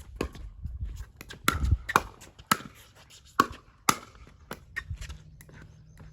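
Pickleball paddles hitting the plastic ball in a rally: a run of sharp pops, five loud ones about half a second apart in the middle, with fainter taps around them.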